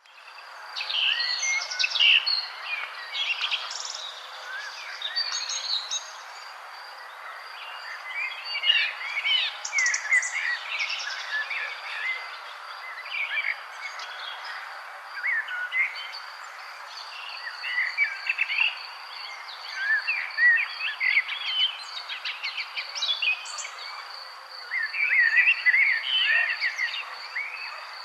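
Several songbirds chirping and singing in short, overlapping phrases. Under them runs a steady, fast-pulsing high trill and a soft background hiss.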